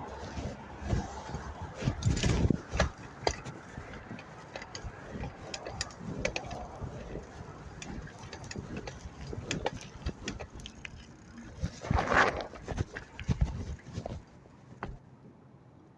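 Bicycle in motion: irregular knocks and rattles over a steady road noise, with louder clusters about two seconds in and again about twelve seconds in, then quieter near the end.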